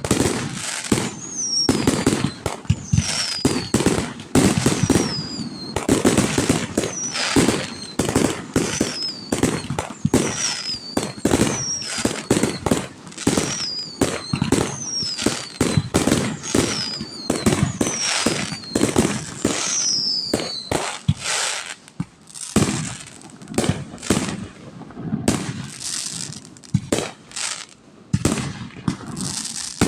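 Fireworks display exploding in a dense barrage of bangs and crackles. A high whistle falling in pitch repeats about once a second through the first two-thirds. The bangs then thin out and come further apart near the end.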